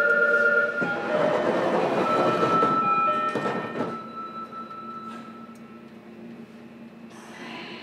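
A steady electronic chime stops about a second in. A train then pulls out, a rush of running noise with motor tones that lasts a few seconds and then fades away, heard from inside a standing commuter car.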